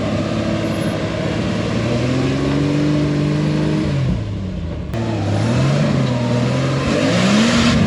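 Rock-crawling truck engine revving under throttle: the pitch climbs over a couple of seconds, falls off about four seconds in, then rises and falls again twice with shorter blips of throttle.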